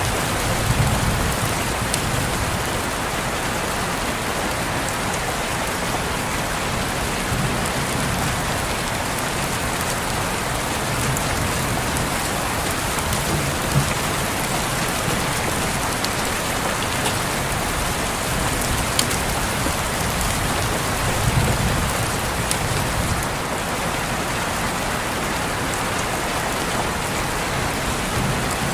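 Steady rain on a window, an even hiss with scattered sharp drop ticks. A few brief low rumbles rise under it: about a second in, around the middle, and again about three quarters of the way through.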